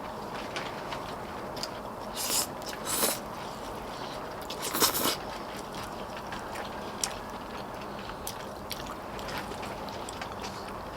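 Eating sounds: chewing, with small clicks of utensils and three short, louder rustles over a steady hiss.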